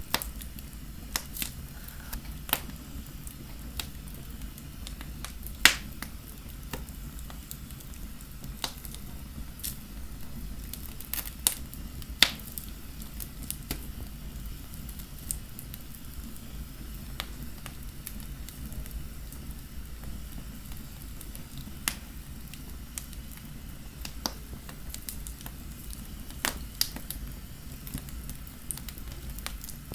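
Fire in a fireplace crackling: irregular sharp pops and snaps over a low steady rumble, the loudest pops about six and twelve seconds in.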